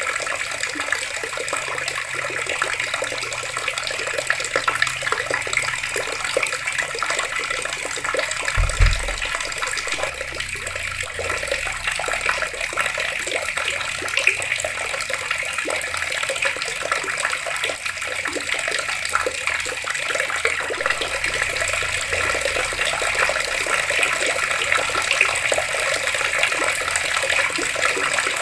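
Water running steadily from taps, a continuous splashing rush. One brief low thump about nine seconds in.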